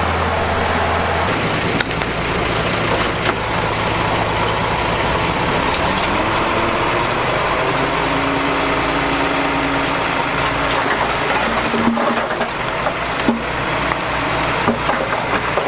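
Mitsubishi bulldozer's diesel engine working, its note shifting a little over a second in, with a rising pitch in the middle and scattered metallic knocks and clanks toward the end.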